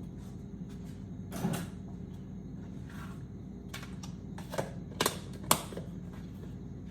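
Kitchen handling sounds: a few sharp clicks and knocks, most of them in a cluster past the middle, the last the loudest, over a steady low hum.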